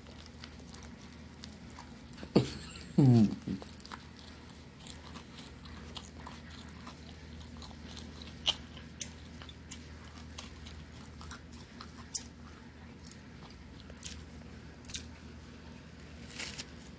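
Close-up eating of chicken salad on bread: chewing and biting, with small crunches and mouth clicks scattered throughout. About three seconds in comes a brief, loud sound from the eater that falls in pitch.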